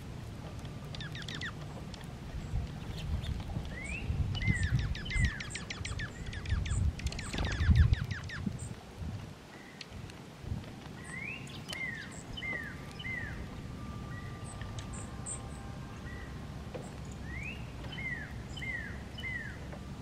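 Wild backyard birds calling: one repeats a short down-curving whistle in runs of three or four, among high chips and a quick run of ticks in the first half. Low thumps come and go during the first eight seconds.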